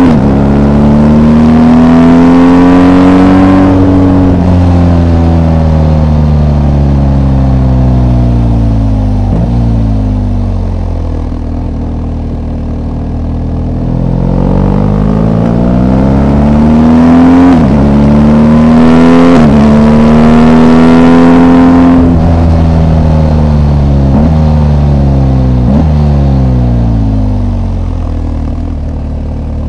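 BMW R 1250 GS's 1254 cc flat-twin boxer engine pulling the bike along. The revs climb and fall twice, with two sudden drops in pitch a little past halfway as it shifts up, then a long fall with a couple of brief rev jumps as it shifts down.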